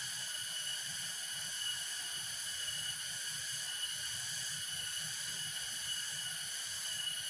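Steady chorus of insects, a shrill drone made of several high pitches held unbroken, over a fainter low rushing noise.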